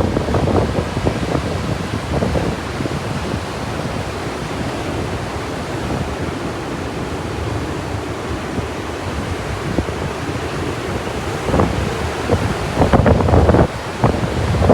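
Wind gusting on the microphone over the steady wash of breaking ocean surf, the rumbling buffets strongest near the end.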